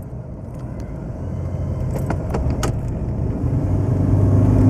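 Truck engine running at high revs under acceleration, getting louder, with a few light clicks or jingles in the middle. The rebuilt transmission is hanging in first gear and not upshifting, which happens only on the first cold start of the day.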